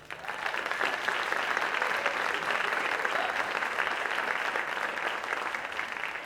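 Theater audience applauding at the end of a song: dense, steady clapping that breaks out suddenly and tapers off near the end.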